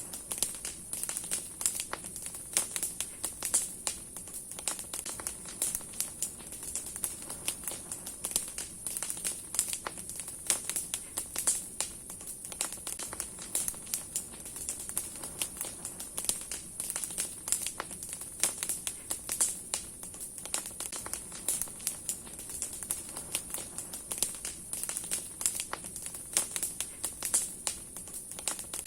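Large wood bonfire burning, the branches and logs crackling and popping continuously, with many sharp snaps.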